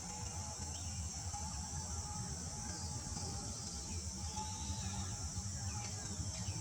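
Forest ambience: a steady, high, shrill insect drone over a low rumble, with a few faint short chirps.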